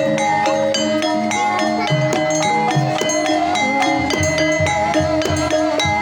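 Javanese gamelan music: kendang hand-drum strokes under a steady rhythm of struck, ringing metallophone notes.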